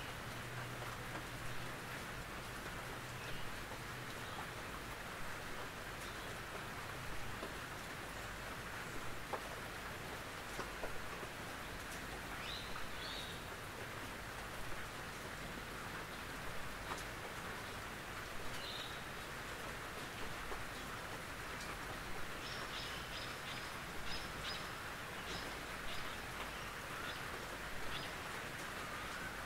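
Gentle rain on a tin roof: a steady, even hiss with scattered drops tapping on the metal. A few faint high chirps sound about halfway through, and a quick run of short high notes comes near the end.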